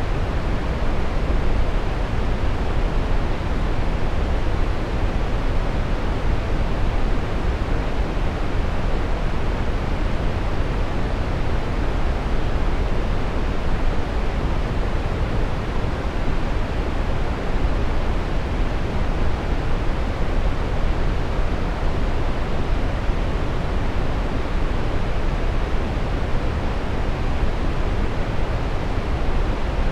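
Steady synthetic brown noise: an even, unchanging rushing hiss weighted heavily toward the low end, like distant surf.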